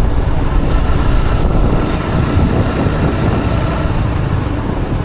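A motorcycle riding along a road: a steady, loud rumble of engine and road noise.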